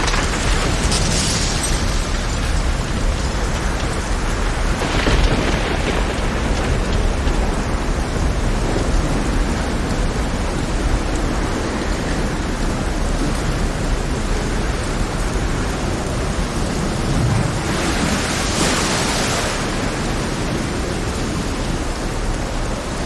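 Heavy rain over a rough sea: a dense steady rushing with a deep rumble underneath, swelling into brighter hissing surges about a second in, around five seconds, and again near eighteen seconds.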